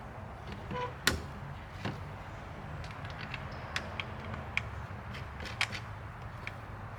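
Scattered sharp clicks and knocks of small parts and tools being handled, the loudest about a second in, over a steady low hum.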